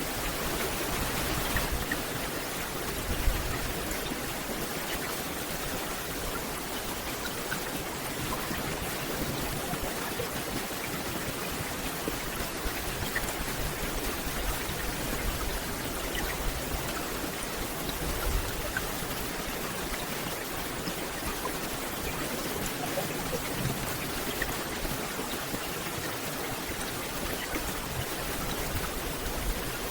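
Steady rain falling on forest foliage: an even hiss with scattered droplet ticks, a little heavier in the first second or two.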